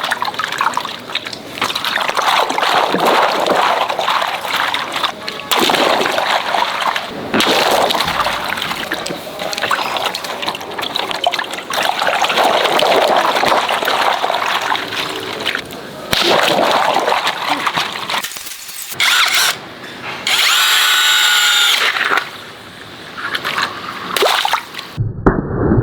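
Water gushing and splashing, stopping and starting several times, with a brief pitched squeal-like tone about twenty seconds in.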